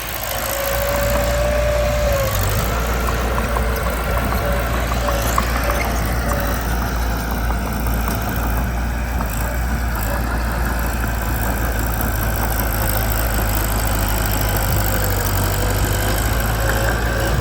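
Mitsubishi BD2 bulldozer's diesel engine running steadily, with a thin whine that sounds briefly at the start and again near the end.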